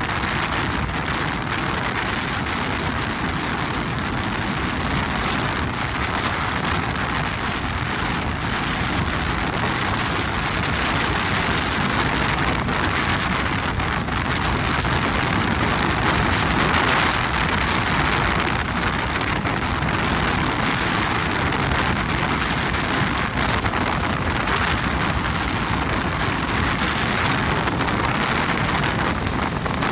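Steady rushing wind and road noise on the microphone of a moving motorcycle.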